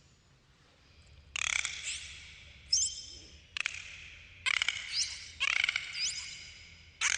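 Dolphins calling: about five bursts of rapid clicking and buzzing pulse trains, with short rising whistles about three times.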